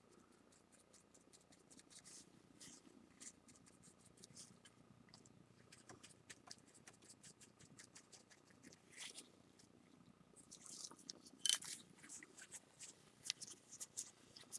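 Faint, scratchy rustling of a tissue being rubbed over the lacquered repair line of a ceramic plate, in short uneven strokes, with one louder scrape about three quarters of the way through.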